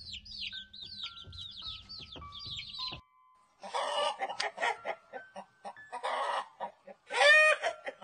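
Chicks peeping: a fast run of high, falling cheeps. Then chickens peck grain in quick taps and cluck, with one loud cluck near the end.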